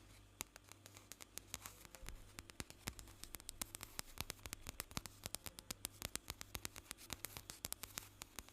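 Close-up, rapid, irregular small clicks and taps, a few at first and then several a second.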